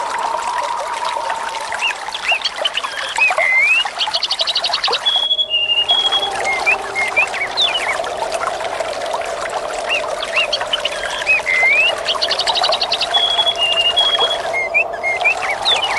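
Running water trickling steadily, with birds chirping and giving short rapid trills above it. The same stretch of sound repeats about every eight and a half seconds, with a brief dip in the water noise each time.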